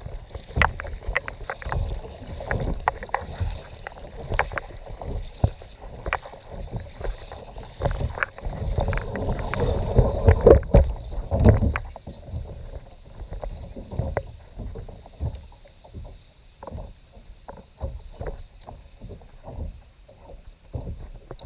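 Sounds aboard a kayak: scattered knocks and clicks over a low rumble of water and hull noise, louder and busier for a few seconds around the middle.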